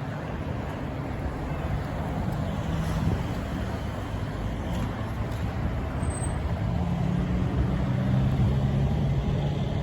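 Diesel locomotive engine running with a steady low rumble and hum, getting somewhat louder in the second half.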